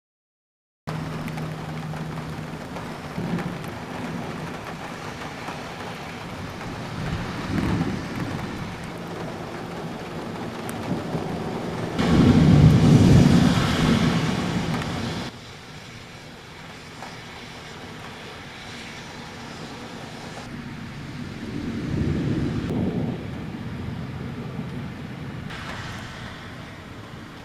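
Thunderstorm: steady rain with several swells of low thunder rumble, the loudest about twelve seconds in, cutting off abruptly about three seconds later.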